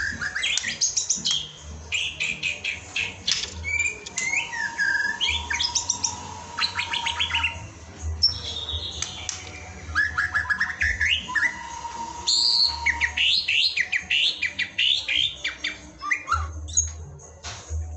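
White-rumped shama (murai batu) singing a long, varied song of clear whistles, pitch glides and rapid chattering trills, broken by short pauses. This is the kind of song played as a lure to prompt a caged shama to sing.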